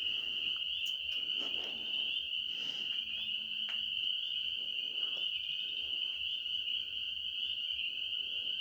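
Night chorus of calling frogs and insects: a continuous high-pitched pulsing trill.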